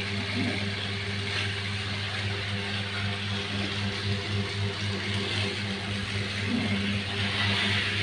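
Small battery-powered motor of a toy City Truck running steadily along its plastic track: a low, even hum with a faint hiss above it.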